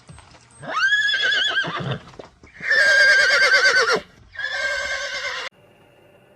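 Horse whinnying three times, each call a loud, quavering neigh, the last cut off suddenly.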